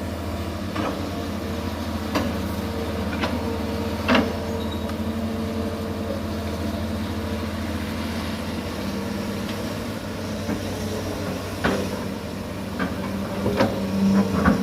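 Komatsu PC200 long-arm excavator's diesel engine running steadily under load as the machine works itself free of peat mud, with sharp metallic clanks and knocks every second or so, the loudest about four seconds in and several close together near the end.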